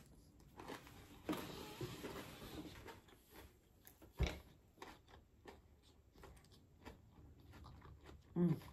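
Quiet, close-miked chewing and mouth sounds with scattered small clicks, a stretch of soft hiss a little over a second in, and a single knock about four seconds in.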